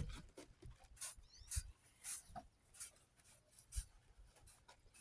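Windex glass cleaner being sprayed and wiped over the sanded bodywork of a 1988 Ford F-250: a string of short, hissy strokes about half a second to a second apart, to clean the metal before priming.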